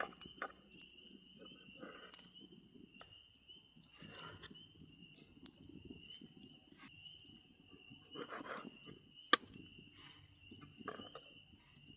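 Faint rustling and scattered light clicks of small objects being handled, with one sharp click about nine seconds in, over a steady thin high-pitched tone.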